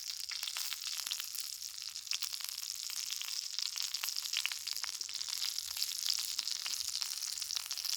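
Food frying in a cast iron skillet: a steady sizzle with frequent small pops.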